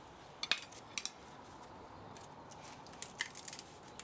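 A few sharp metallic clicks and snips from hand tools working on a scrapped spa motor, loudest about half a second in, with more around three seconds in.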